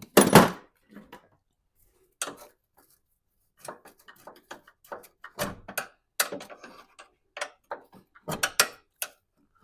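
Knocks and rattles of plastic and metal parts as a stuck truck radiator is tugged and worked at in the engine bay. One loud thump right at the start, then irregular scattered knocks.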